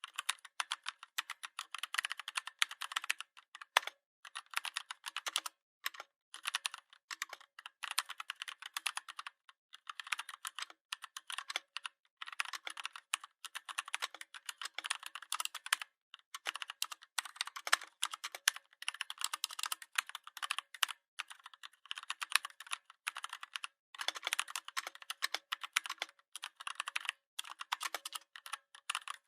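Typing on a computer keyboard: quick, continuous runs of key clicks broken by brief pauses every second or two.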